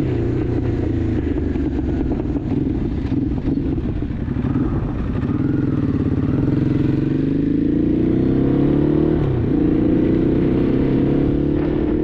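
Ducati Hypermotard motorcycle engine on the move, heard from the bike. It eases slightly around four seconds in, then pulls harder from about six seconds, its pitch rising steadily, with a short break in the note about nine seconds in.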